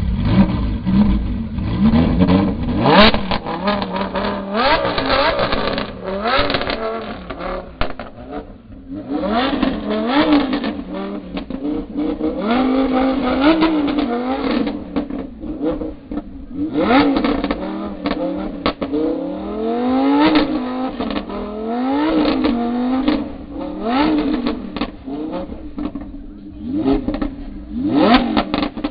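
Supercar engine revved again and again over a steady idle: quick rev blips that rise in pitch and fall back, a dozen or more, with short pauses between groups.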